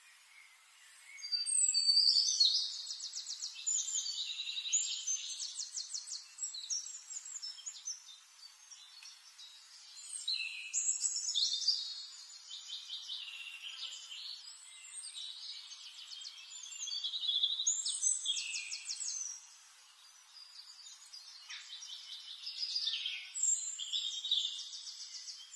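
Birds singing: quick chirps and rapid trilled phrases, louder in spells every six or seven seconds.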